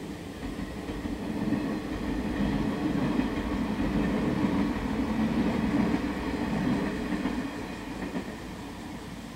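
Yellow local electric train passing on the line, its running noise swelling about a second in, steady and loudest through the middle, then fading as it moves away.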